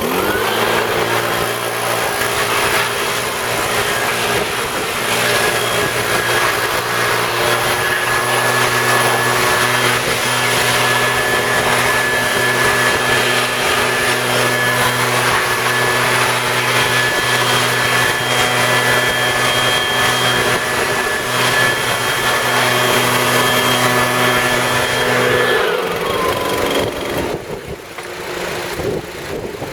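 Blower spinning up, running steadily with a whine and rush of air while blowing rinse water off a freshly washed car engine, then winding down and stopping about 26 seconds in.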